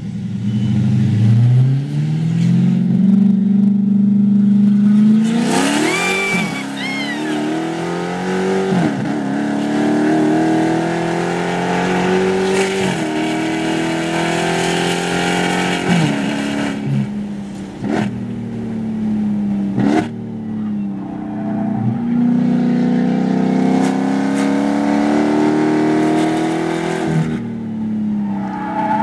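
Dodge Charger Hellcat's supercharged 6.2-litre V8 heard from inside the cabin, driven hard on track. The engine pitch climbs under throttle and falls back sharply several times as the driver shifts or lifts for corners.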